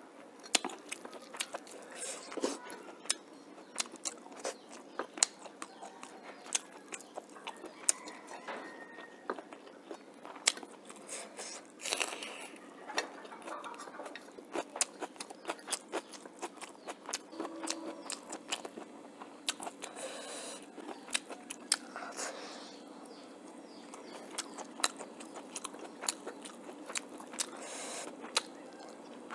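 Close-miked chewing: a person eating rice, chicken and raw chickpeas by hand, with frequent short, irregular mouth clicks, smacks and crunches.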